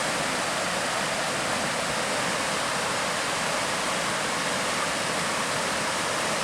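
The River North Esk running, a steady, even rush of flowing water.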